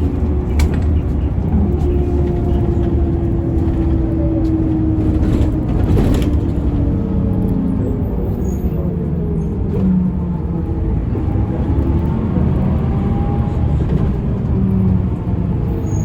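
Mercedes-Benz O405N2 city bus running: a steady low drone from engine and road, with a whine that rises and falls in pitch. There are a few rattles or clicks, the sharpest about half a second in.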